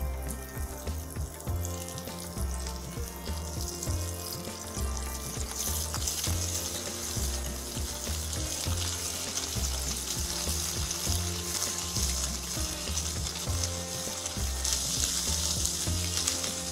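Paneer cubes sizzling in hot butter in a nonstick frying pan as they are laid in one by one; the sizzle grows louder about a third of the way in and again near the end. Background music with a steady low beat runs underneath.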